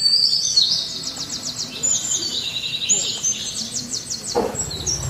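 Songbird singing: high, quick chirps and two fast trills. A lower sound cuts in near the end.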